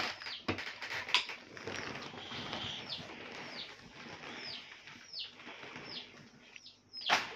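A bird calling over and over, short high notes that drop in pitch, about one a second, with a few sharp knocks in between.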